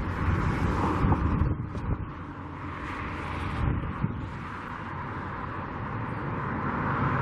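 Wind buffeting the microphone, with road traffic running underneath; a passing vehicle swells louder near the end.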